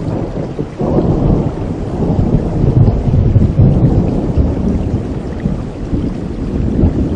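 A thunderclap over steady rain. The thunder breaks suddenly about a second in and rolls on as a long, low rumble, loudest a few seconds in, then slowly fades.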